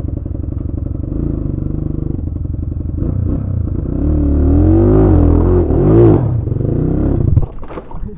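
Honda Megapro's single-cylinder motorcycle engine running just after starting, steady at first, then revved up and down several times before it falls away suddenly about seven and a half seconds in.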